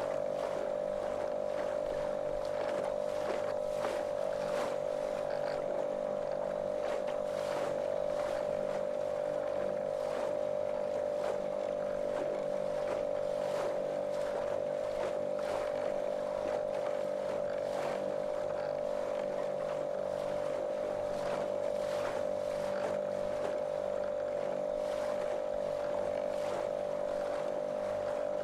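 Small motorboat's motor running at a constant speed, a monotonous steady hum, with irregular splashes of water against the hull.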